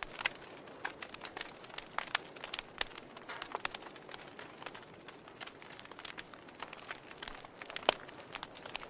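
Wood fire in a fireplace crackling: irregular sharp pops and snaps over a faint steady hiss, the loudest pop near the end.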